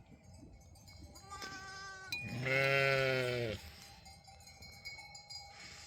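Small livestock bleating: a short, higher bleat about a second and a half in, then a loud, long, lower bleat that is the loudest sound.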